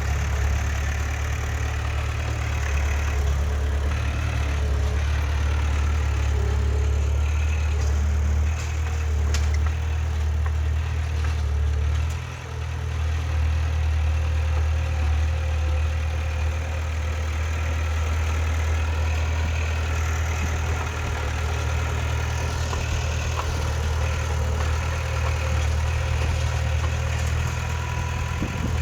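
Diesel engine of heavy earthmoving machinery running steadily with a deep low hum, dipping briefly about twelve seconds in.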